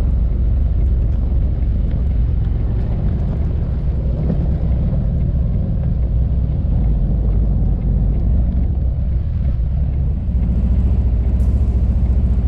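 Harley-Davidson Electra Glide Ultra Limited's V-twin engine running with a steady low rumble, a little louder about ten seconds in.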